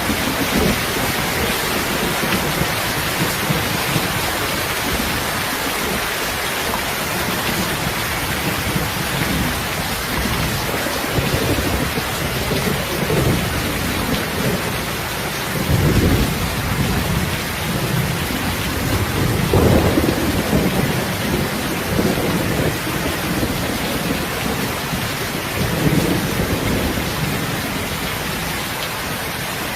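Steady rain hissing, with deep rumbling swells a few seconds apart, the loudest about two-thirds of the way through.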